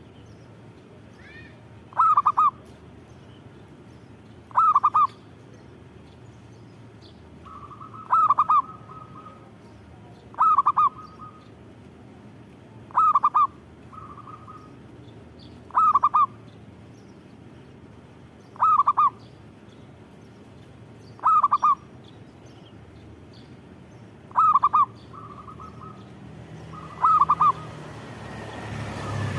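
Zebra dove (perkutut) cooing: ten short, loud calls evenly spaced about every three seconds.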